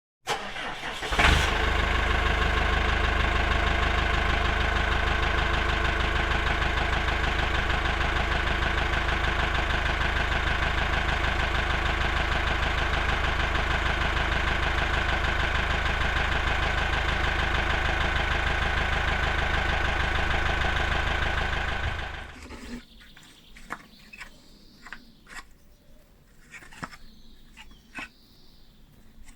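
A motor running at one steady pitch, starting suddenly and stopping after about 22 seconds, followed by a few faint clicks and knocks.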